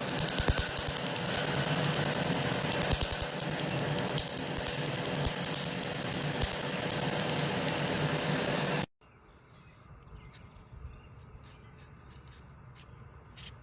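A loud, dense mechanical rattle made of rapid knocks, which cuts off suddenly about nine seconds in; then it is quiet, with a few faint clicks.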